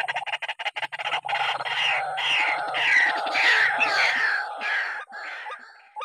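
White-breasted waterhen calling: a fast series of short notes leads into a run of harsh, falling 'kruak' calls, about two a second.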